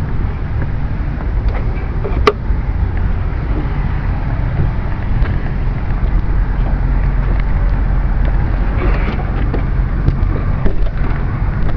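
Heavy truck diesel engine idling steadily, with one sharp metallic click about two seconds in.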